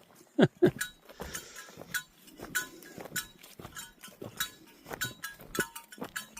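Footsteps of a hiker walking on a trail, with small metal gear clinking and jingling in step, several light clinks a second.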